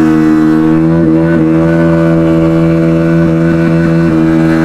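KTM RC 390 single-cylinder engine held at steady high revs during a rear-tyre burnout, with a couple of brief dips in pitch about a second in.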